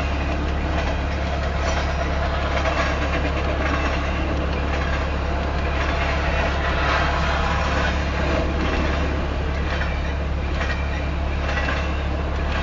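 Double-stack intermodal freight cars of a Union Pacific train rolling past at speed. Steel wheels on rail make a steady, even rumble with no breaks.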